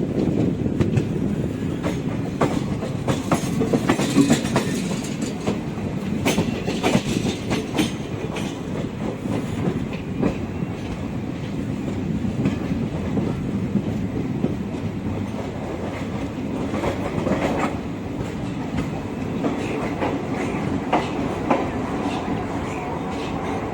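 Passenger train running, a steady rumble with irregular clicks and knocks from its wheels passing over rail joints.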